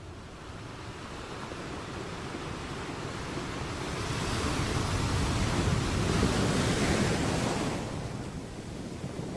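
Sea waves on a shore: a wave swells up to a peak of rushing surf over several seconds, then ebbs away near the end.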